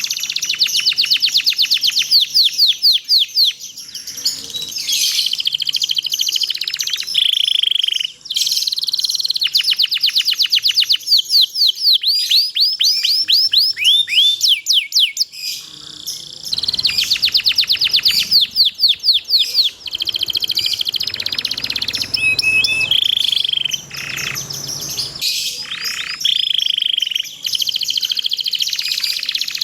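Domestic canary singing long rolling trills: rapid runs of chirps and sweeping notes, in phrases of a few seconds broken by short pauses.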